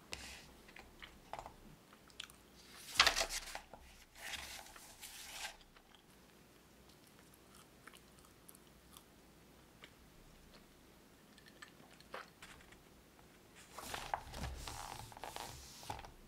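Crunchy bites and chewing of cream cheese garlic bread, in two spells: one about three seconds in and the loudest, another near the end.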